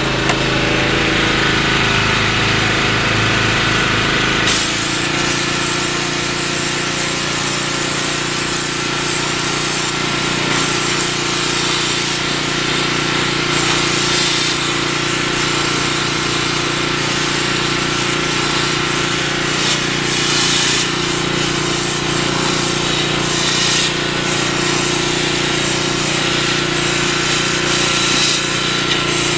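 Gas pressure washer engine running. About four seconds in, the sand-injected water jet opens up: a loud, steady hiss of water and sand blasting onto concrete over the engine, whose note changes under the load and holds steady.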